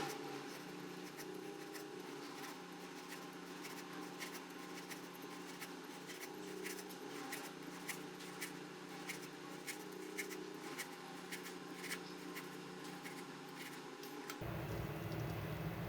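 Knife slicing raw potato, a string of faint, irregular small cuts and taps on the cutting board. Near the end a steady low hum comes in.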